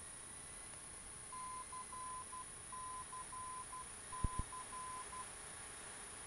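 A steady high beep keyed on and off in a Morse-code pattern of long and short tones over the aircraft radio audio, the kind of identifier a navigation radio plays, with two sharp clicks about four seconds in.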